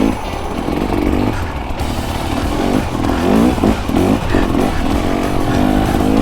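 Dirt bike engine revving up and down as it is ridden through snow, with several quick rises and falls in pitch, bunched about three to four and a half seconds in.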